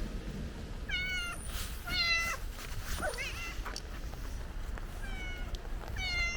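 Stray cat meowing repeatedly, about five short high-pitched meows, one about three seconds in sliding up then down in pitch.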